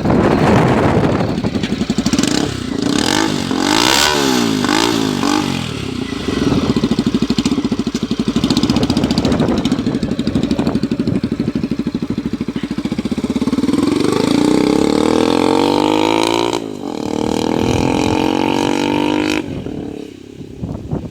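Honda CB300 single-cylinder engine through an open straight-pipe 4-into-1 exhaust with no muffler. It revs in a few quick blips, holds high revs, then pulls up through the gears, each rise in pitch ending in a sudden drop.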